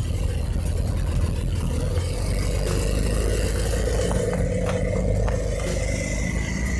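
Race car engine running at low revs with a steady low rumble, with a few sharp clicks in the middle.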